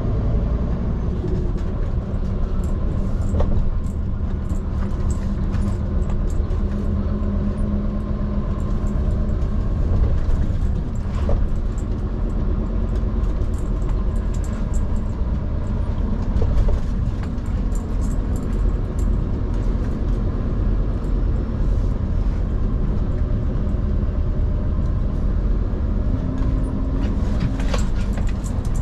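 Scania P360 XT skip lorry's five-cylinder diesel running steadily under way, a constant low rumble with road noise and occasional light knocks and rattles.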